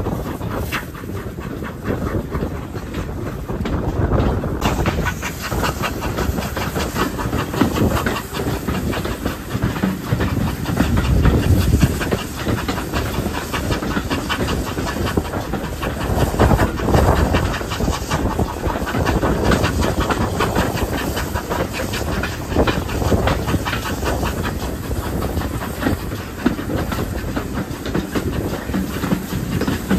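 Pannier tank steam locomotive working along the line: steady hiss of steam with a fast rhythmic beat and clatter of the engine and wheels on the rails, the hiss growing stronger a few seconds in.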